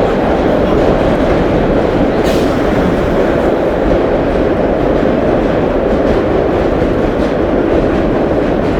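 1930s R1-9 subway train in motion: a steady, loud rumble of steel wheels on the rails, with a few faint clicks from rail joints.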